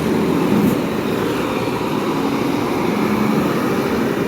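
Road traffic noise from a heavy vehicle, a bus engine running steadily as it goes by.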